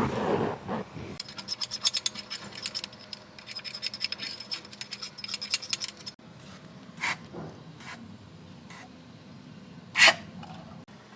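Small metal parts of a disassembled small-engine carburetor being handled, giving a quick run of scratchy clicks and scraping, then a few separate light knocks, the loudest near the end.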